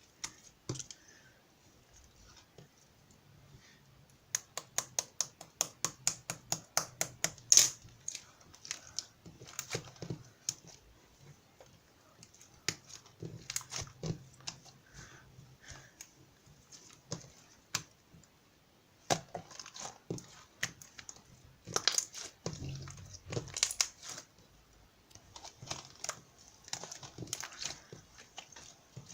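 Rapid runs of sharp clicks and taps, mixed with crinkling handling noise.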